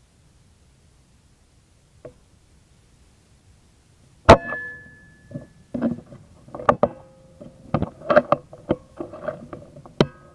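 A sharp air-rifle shot about four seconds in, then a string of irregular knocks and clicks, and another sharp crack near the end.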